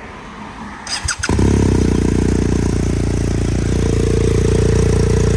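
BMW R 1250 R boxer-twin engine, breathing through an SC Project SC1-R carbon silencer, cranks briefly on the starter about a second in, catches and runs steadily from a cold start.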